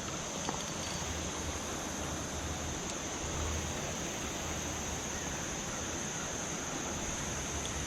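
Steady outdoor background: a constant high-pitched insect drone over an even rushing haze, with no distinct events.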